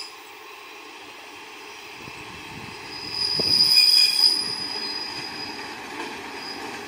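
Two-car KiHa 37 diesel railcar train arriving at a station platform, its running noise growing as it nears. About three seconds in, a high steady squeal rises over it for about a second and a half, then fades while the rumble of the train carries on.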